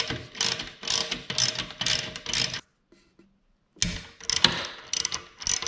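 A 3/8-inch drive socket ratchet clicking rapidly as it is swung back and forth, loosening the muffler hanger bolts. There are two runs of clicking with a pause of about a second between them.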